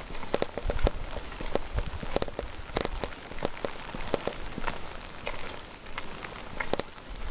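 Rain falling: a steady hiss with many irregular, sharp drip taps close by.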